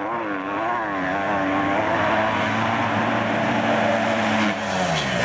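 Honda CRF250 single-cylinder four-stroke dirt bike engine revving hard, its pitch wavering up and down for the first couple of seconds, then held steady at high revs, then dropping sharply near the end as the throttle is cut.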